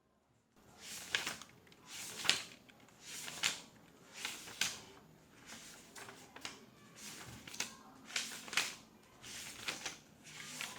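Office ambience of computer keyboard typing, in short bursts of keystrokes about once a second, starting after a brief pause.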